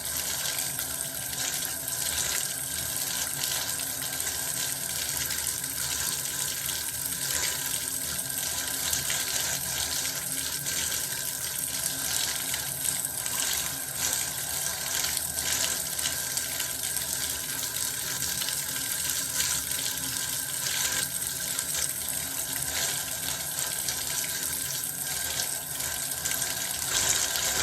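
Bath water running steadily from a tap, an even rush of falling water with many small splashes mixed in.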